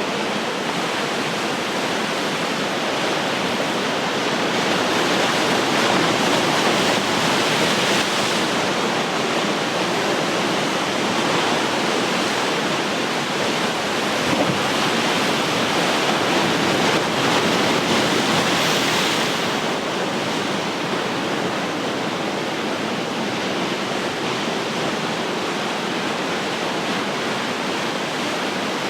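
Ocean surf breaking and washing in: a continuous rush of water that swells to its loudest between about five and nineteen seconds in, then eases back.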